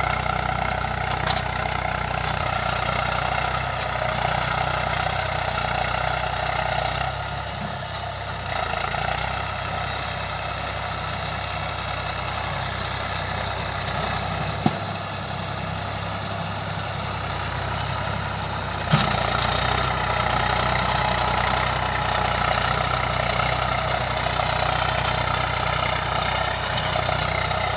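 Eicher 380 tractor's diesel engine running steadily as it works the field with a cultivator. Three brief sharp clicks stand out, one about a second in and two later, around 15 and 19 seconds.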